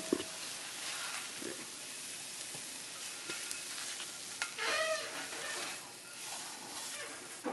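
Scrambled eggs sizzling in a frying pan while being stirred, with scattered clicks of the utensil. A brief pitched sound about five seconds in.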